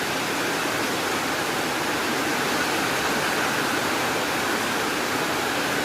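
Heavy typhoon rain pouring down in a steady, unbroken hiss.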